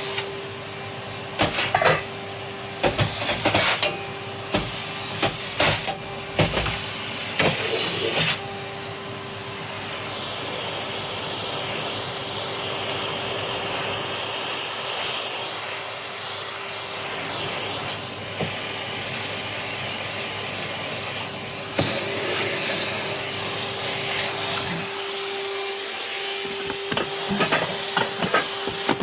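Vacuum cleaner running with a steady motor whine, the nozzle sucking and knocking against surfaces in short louder rushes during the first eight seconds and again near the end.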